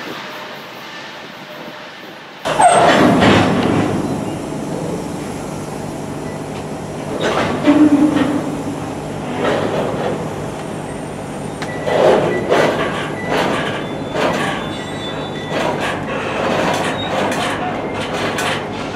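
Train passing close by: steady rumble of wheels on rail with repeated clanks and short wheel squeals. It suddenly gets much louder about two and a half seconds in.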